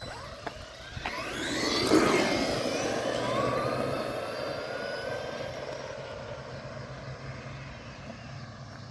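Traxxas Maxx RC monster truck's electric motor whining as it speeds up, the pitch climbing sharply, then holding at speed while it fades away.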